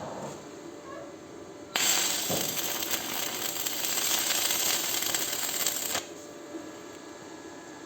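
Electric arc welding, one weld run: a loud, steady hiss starts sharply about two seconds in and cuts off abruptly about four seconds later. Faint clicks and taps come before it.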